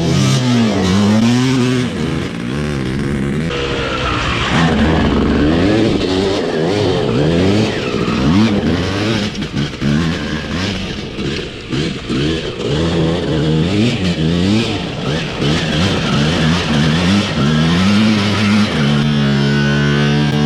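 Honda CR250 two-stroke engine of a custom quad being revved hard and ridden, its pitch climbing and dropping again and again as the throttle is opened and closed.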